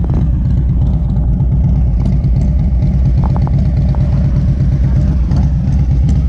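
An engine idling nearby, a steady low rumble, with a few faint ticks about three seconds in.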